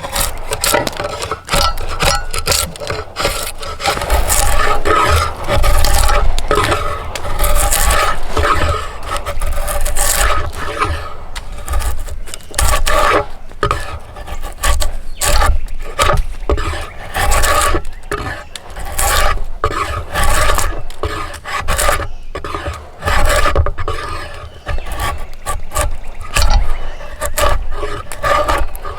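A hand tool working a yew bow stave: repeated, uneven scraping strokes of steel across the wood, with a faint ringing note in the cut.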